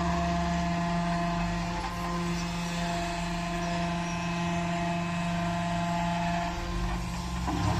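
Electric power pack's motor and hydraulic pump running a Palfinger truck-mounted crane's hydraulics: a steady, even hum with a few constant tones.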